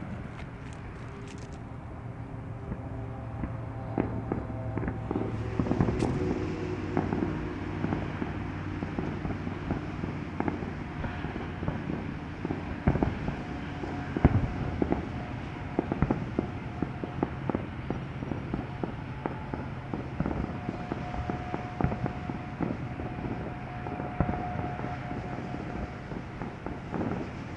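Fireworks going off at a distance: sharp bangs and pops at irregular intervals, a few much louder than the rest, over a steady low hum.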